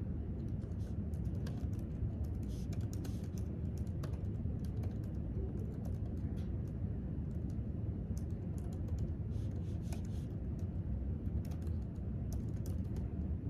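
Typing on a laptop keyboard: irregular quick key clicks, some in short runs, over a steady low room hum.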